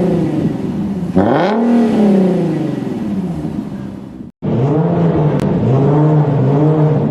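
Nissan 370Z's 3.7-litre V6 exhaust: a sharp rev about a second in, the revs falling away over the next few seconds. The sound cuts out briefly, then the engine runs at steady revs with a slight wavering.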